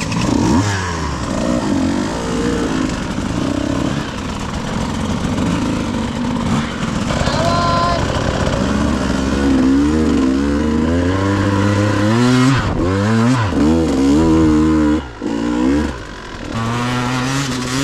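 KTM 150 two-stroke dirt bike engine on the trail, revving up and down repeatedly as the throttle is worked, with brief drops in the engine note and wind noise.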